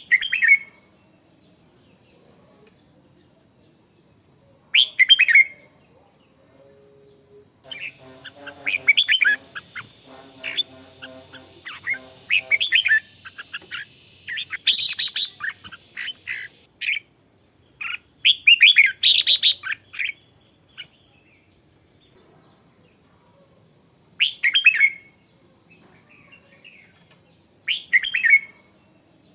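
Red-whiskered bulbuls singing in short, bright warbled phrases, a few seconds apart at first and last, and tumbling close together through the middle. A faint, steady high-pitched tone runs underneath, and a lower, evenly pitched sound joins the song for several seconds in the middle.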